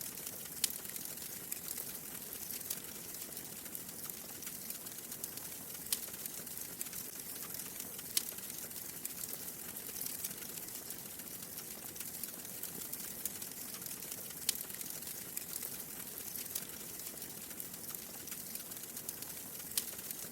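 Wood fire crackling in a fireplace: a steady soft hiss of flames with constant small crackles and a few sharper pops of burning logs.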